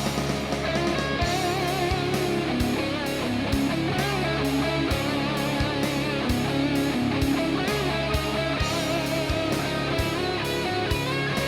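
Instrumental break in a heavy metal song: distorted electric guitar playing a wavering lead line over bass and a steady drum beat.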